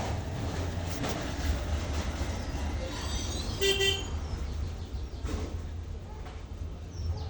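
A vehicle horn toots once, briefly, a little over halfway through, over a steady low rumble of street traffic.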